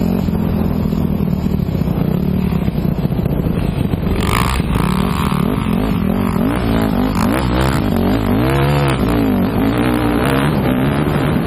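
Motocross bike engine revving up and down repeatedly as it is ridden, with a brief noisy burst about four seconds in.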